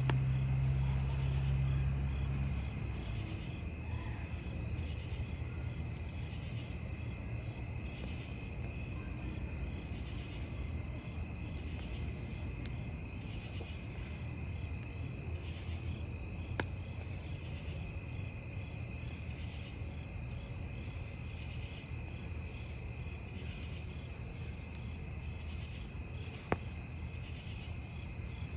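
Crickets chirping steadily over the low, even rumble of a burning wood campfire. The fire gives two sharp pops, one about halfway through and one near the end.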